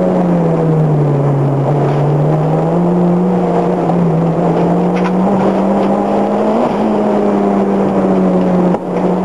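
Toyota Glanza's four-cylinder engine running hard, heard from inside the cabin over tyre and wind noise. Its pitch sags as the throttle comes off about a second in, then climbs back and holds steady, with a brief drop in level near the end.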